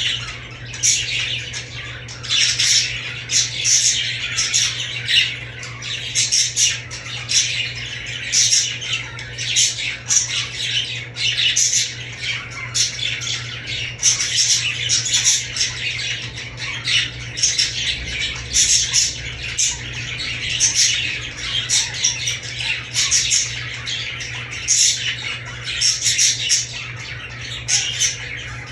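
Several pet budgies chattering and squawking, a dense stream of short high-pitched calls several times a second. A steady low hum runs underneath.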